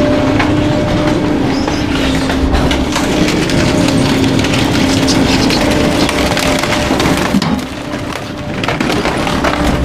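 Garbage truck's packer blade crushing bulky waste: dense crackling and snapping over a steady hydraulic hum. The crushing eases briefly a little before the end.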